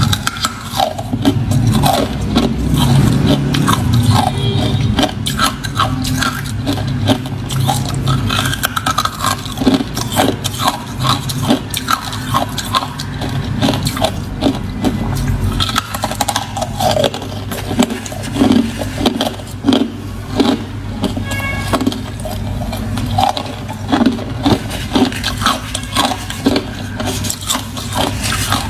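A person chewing ice close to the microphone: a dense, irregular run of crunches and cracks, over a steady low hum.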